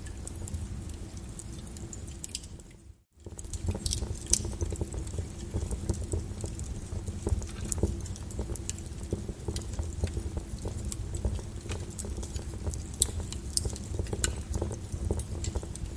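Wood fire crackling with frequent sharp pops over a steady hiss and low rumble of rain. The sound briefly drops away almost to silence about three seconds in, then comes back.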